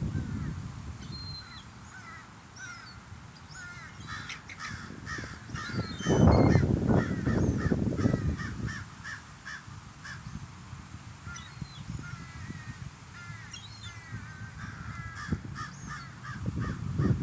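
A flock of seagulls calling: many short, overlapping squawking calls, repeated rapidly. A louder low rushing noise swells for a few seconds about six seconds in.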